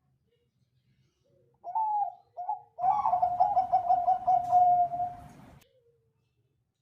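Zebra dove (Bangkok-type perkutut) singing: two short opening notes, then a long, rapidly rolling coo lasting about three seconds that fades out at the end.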